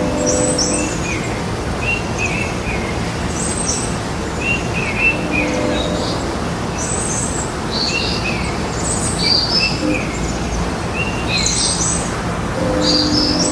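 Several songbirds chirping in short, quickly repeated phrases over a steady background hiss, with a brief low tone at the start, near the middle and near the end.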